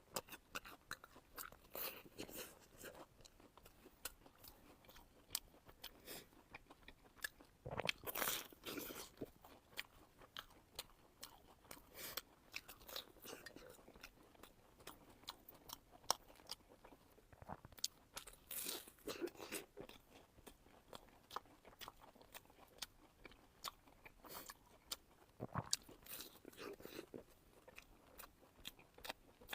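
Close-miked chewing and biting of deep-fried bread: irregular crisp crunches and small clicks, with a few louder bites, the biggest about eight seconds in.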